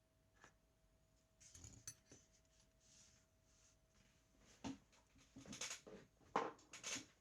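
Faint, irregular clicks, taps and scraping of small parts and tools being handled at a workbench, sparse at first and busier in the second half, with one sharp click about six seconds in. A faint steady whine runs beneath and stops about four and a half seconds in.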